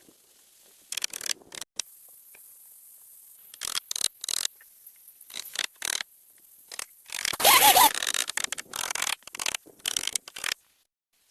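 Irregular short scraping and rustling sounds of hand work, with one louder, longer scrape carrying a brief squeak about seven seconds in.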